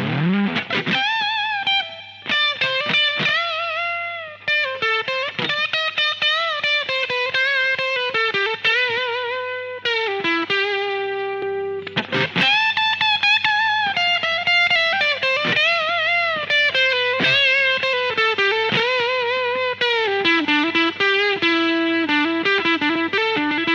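Electric guitar played through an Electro-Harmonix LPB-1 booster pedal: a single-note lead melody with string bends and vibrato, slightly driven in tone.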